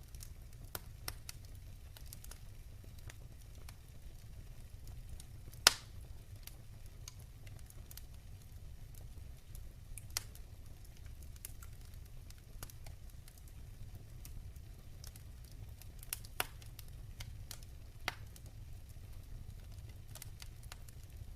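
Wood fire burning in a fireplace, with a steady low rumble and scattered crackles and pops; the loudest pop comes about six seconds in.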